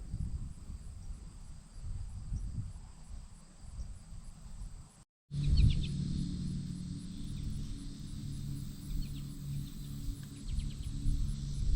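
Outdoor ambience with an uneven low rumble. After an abrupt cut about five seconds in, a steady low hum comes in, with a few quick, high chirps from small birds.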